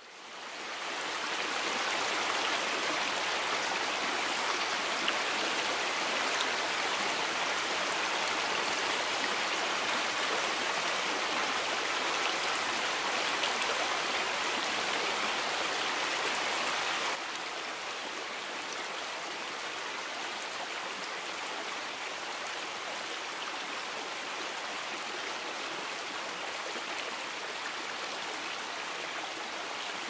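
Shallow stream running over rocks: a steady rush of water that fades in at the start and drops slightly in level about seventeen seconds in.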